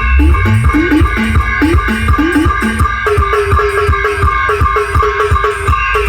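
Loud live band music: a repeating organ-like keyboard melody over fast, steady drumming. About three seconds in, the melody shifts to a higher, quicker repeated figure.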